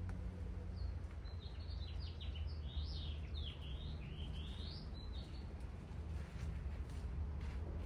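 A songbird singing a run of quick rising and falling chirps for a few seconds, over a steady low background rumble.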